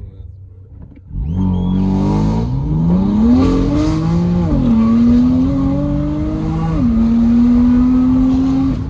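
BMW M3 F80's S55 twin-turbo inline-six, with an equal-length exhaust, accelerating hard. The engine note comes in loud about a second in and climbs in pitch, drops at an upshift about halfway through, climbs again, drops at a second upshift about two seconds later, and the loudness falls away right at the end.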